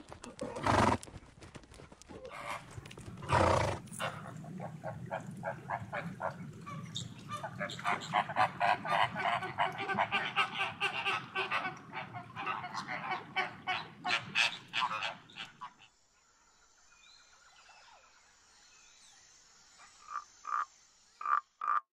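A horse blows out noisily twice, then a flock of flamingos keeps up a dense, rapid honking for about twelve seconds. It then falls much quieter until short repeated calls start near the end.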